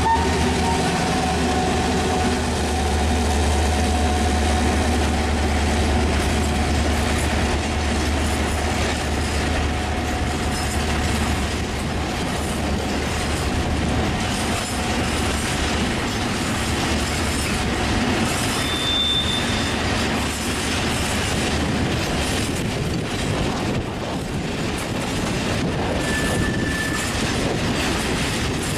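A pair of HŽ Cargo class 2062 diesel locomotives pulls a freight train past. A deep engine rumble fades about halfway through as the locomotives move off. After that the open freight wagons roll by with steady wheel noise clicking over the rail joints, and two short high wheel squeals come near the end.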